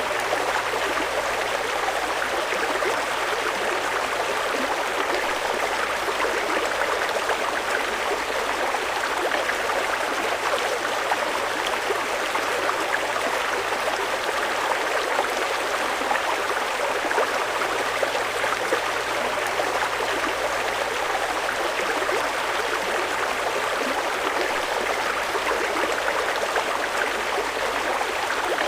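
Swift river water rushing steadily over rocks, an even, unbroken rush.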